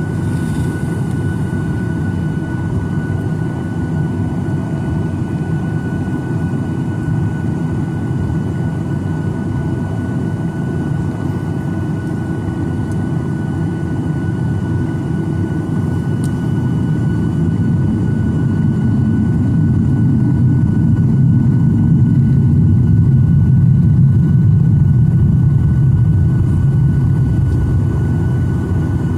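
Cabin noise of a Boeing 737-900ER's CFM56-7B jet engines running: a steady low rumble with a thin, constant whine above it, swelling somewhat louder for several seconds in the second half.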